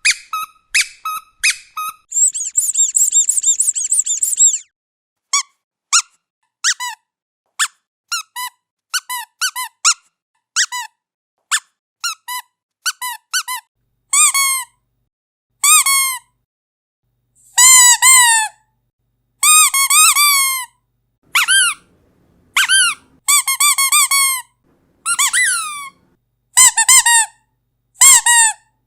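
Squeaky dog toy being squeezed over and over: quick short squeaks, a shrill continuous squeal from about two seconds in, then longer squeaks that drop in pitch at the end, with silent gaps between them.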